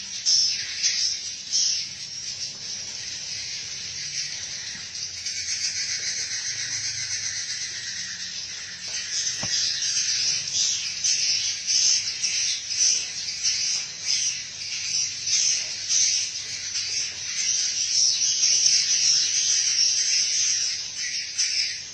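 Edible-nest swiftlets twittering as a colony: a dense, continuous high-pitched chatter of many rapid chirps, swelling and easing in loudness.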